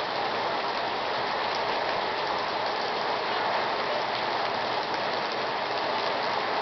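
Torrential rain pouring onto a paved parking lot, a steady, even hiss with no letup.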